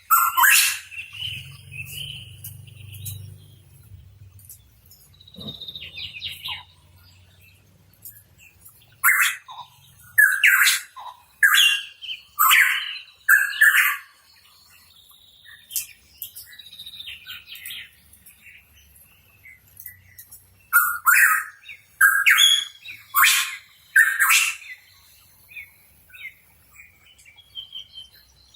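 Pitohui calling: two clusters of loud, sharp calls, one about a third of the way in and another a little past two-thirds, with softer chirps between them.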